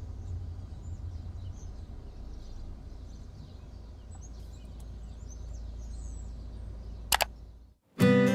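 Outdoor ambience: a steady low rumble with faint bird chirps. A short, sharp double sound comes about seven seconds in, then the sound cuts out briefly and strummed acoustic guitar music starts near the end.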